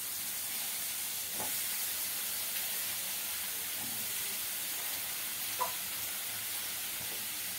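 Water-soaked brinjal (eggplant) pieces sizzling steadily in hot oil with ground spices in a pan, just after going in. Two faint light taps come about a second and a half in and again later.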